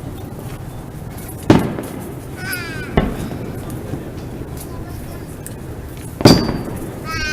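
Aerial fireworks shells bursting: three sharp booms, about a second and a half in, at three seconds, and the loudest a little past six seconds, each trailing off in an echo.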